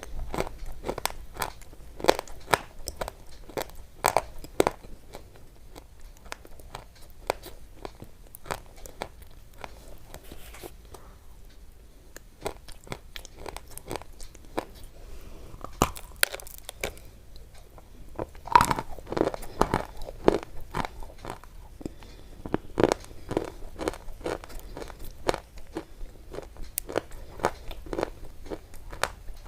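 Close-up crunching: a rapid, irregular run of sharp crunches and crackles that thins out for a few seconds about ten seconds in, then picks up again.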